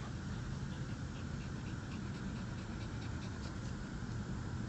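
A tired American Bully puppy panting in short, regular breaths over a steady low hum.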